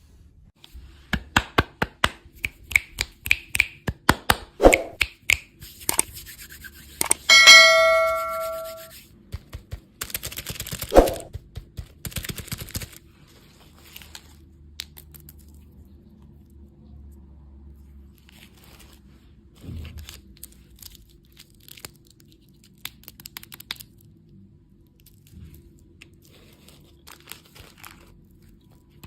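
Candy and its packaging being handled: a quick run of sharp taps and clicks, wrapper crinkling and tearing, and one ringing ding about seven seconds in. After about thirteen seconds only occasional faint taps remain.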